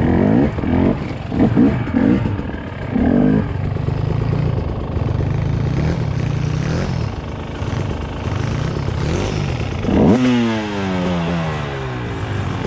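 Dirt bike engine revving in quick blips, then running at a steady pitch while the bike clatters over the trail. About ten seconds in the engine revs sharply, then its pitch falls away over the next two seconds.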